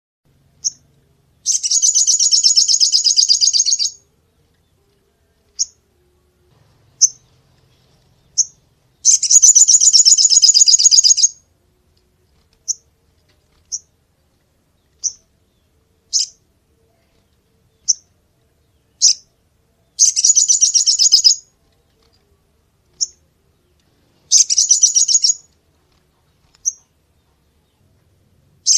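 A small songbird singing: high-pitched, rapid buzzy trills lasting one to two and a half seconds, four of them, with single short chips between.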